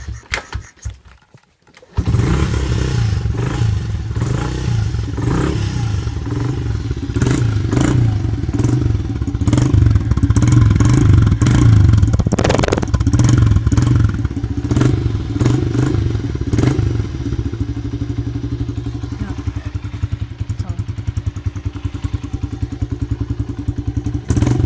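Small Honda dirt bike being kick-started: a few knocks from the kickstart, then the engine catches about two seconds in and runs. It runs louder for a few seconds around the middle, then settles to a steadier, slightly quieter idle.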